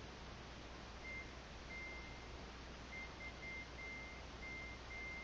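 Faint high-pitched tone that cuts in and out in short irregular dashes, over a steady hiss and low hum.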